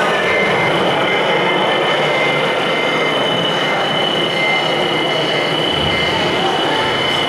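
Radio-controlled scale construction machinery running, its motors and gears giving a continuous mechanical noise with a steady high-pitched whine that grows louder about two and a half seconds in.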